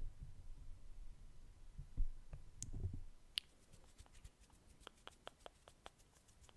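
Close-miked ASMR trigger sounds: low, muffled handling thumps for the first few seconds, then a run of quick, light clicks, several a second.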